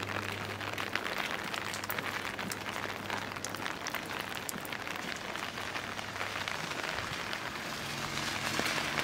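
Steady rain falling on street surfaces, with many separate drops pattering close by. A low steady hum runs underneath, stops a few seconds in, and a different low hum comes in near the end.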